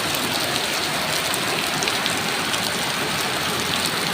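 Heavy rain falling steadily, a dense even patter of drops hitting the ground and surfaces.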